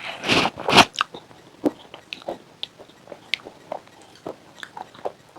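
Close-up mouth sounds of a person biting into crunchy white chips with a pink coating. A few loud crunching bites come in the first second, then softer, scattered crunches and clicks of chewing.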